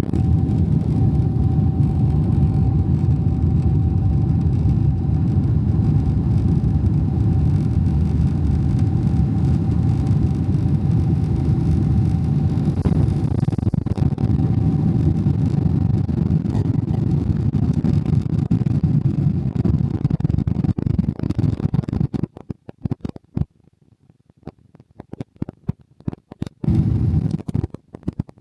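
Cabin noise aboard a Boeing 777-300ER in flight: a steady low rumble of the engines and airflow with a steady whine over it. About three-quarters of the way through it cuts out abruptly, leaving only choppy fragments of the same rumble.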